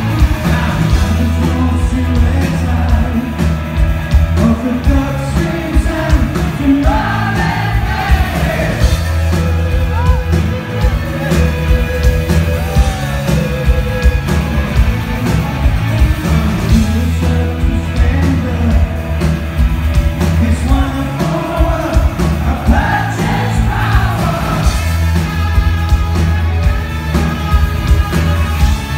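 Live rock band playing, with electric guitars, bass and drums under a male lead vocal.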